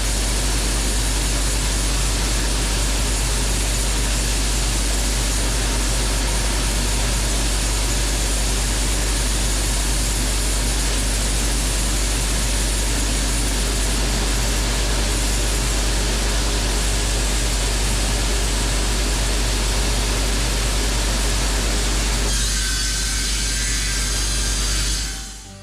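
A portable band sawmill running steadily as its blade cuts through a walnut log, a continuous loud saw and motor noise over a steady low hum. About 22 seconds in the sound changes and thins, as the blade leaves the cut, then it fades out.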